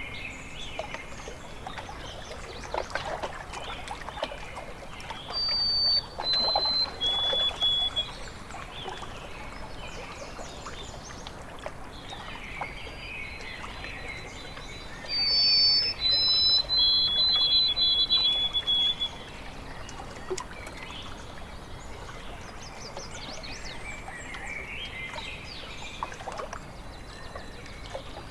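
Lake water lapping and trickling at the shore, with songbirds chirping over it. Two louder phrases of clear, held whistled notes stand out, one a few seconds in and one about midway.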